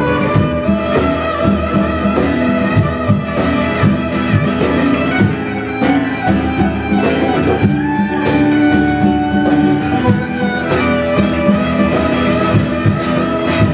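Live band playing an instrumental passage of an original song: guitar accompaniment with a steady beat under long held melody notes, no singing.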